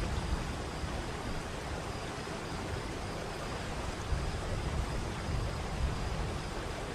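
Waterfall: a steady rush of falling water, with a low rumble that swells and fades underneath.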